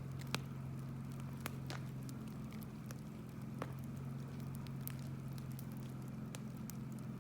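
Wood bonfire crackling, with sharp pops of burning firewood at irregular moments, over a steady low hum.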